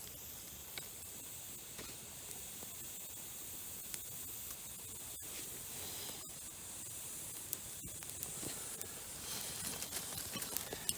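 Small campfire of sassafras twigs, just caught from a feather stick, burning with a steady hiss and a few faint crackles.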